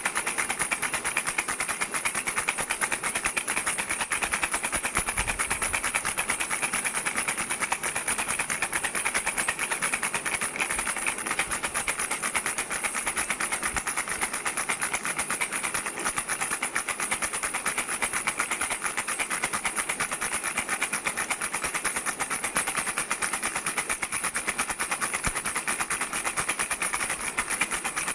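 Baby rattle shaken steadily, giving a fast, unbroken stream of rattling clicks.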